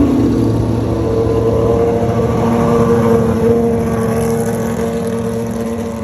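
A car engine running steadily, its drone holding a near-constant pitch with a slight dip about a second in.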